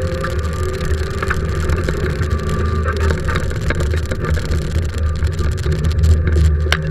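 Fiat Seicento rally car's engine running hard at speed, heard from inside the cabin with road and tyre noise, its pitch shifting a little with the throttle. A sharp click sounds near the end.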